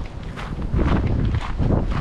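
Footsteps of a person walking on a forest path, about four steps.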